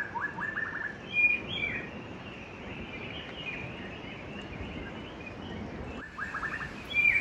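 Forest birds calling: a quick run of rising chirps, then higher, sharper calls about a second in. After a break, a similar run of chirps and calls returns near the end, over a steady background hiss.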